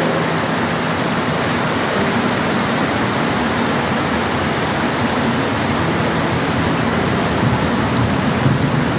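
Steady rain falling, an even rushing hiss with no let-up, with a faint low hum beneath it.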